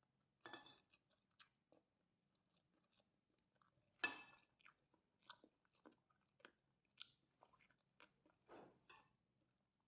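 A person quietly eating fried rice with krupuk crackers: scattered crunches and chewing, with a sharper crunch about four seconds in.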